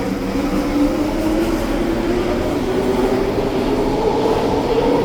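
SkyTrain train departing, its linear induction motors giving a whine that climbs slowly in pitch as it accelerates, over a steady rumble of the cars on the guideway.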